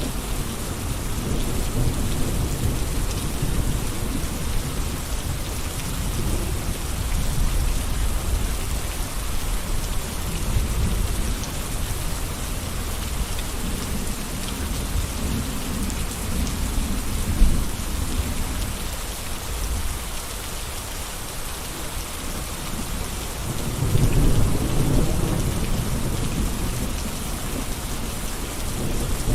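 Steady gentle rain falling, an even patter and hiss, with a low rumble underneath that swells and fades, strongest about three-quarters of the way through. A single sharp tick about halfway.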